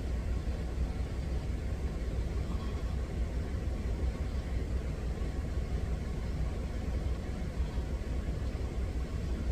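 Steady low rumble of a semi-truck's engine idling, heard from inside the cab.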